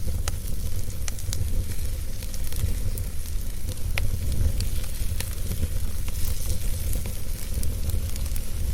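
Wood fire burning in a fireplace: a steady low rumble and hiss with scattered sharp crackles and pops, one of the clearest about four seconds in.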